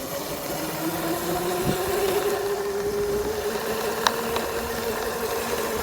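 Small dirt bike engine running while riding, its pitch climbing over the first couple of seconds and then holding steady. A couple of sharp clicks about four seconds in.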